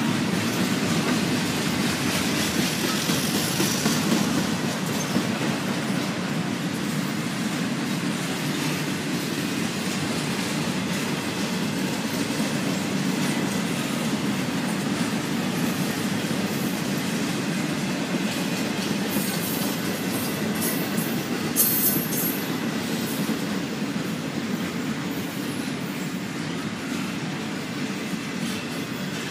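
Double-stack container freight train rolling past, a steady rumble of its wheels on the rails. A cluster of short, sharp high-pitched noises comes about 19 to 22 seconds in, the loudest a sharp clank near 22 seconds.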